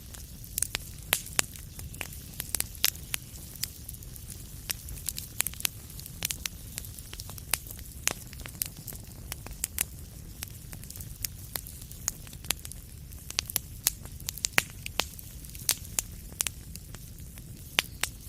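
Wood fire in a fireplace crackling steadily: frequent sharp, irregular pops and snaps over a low, even rumble of burning.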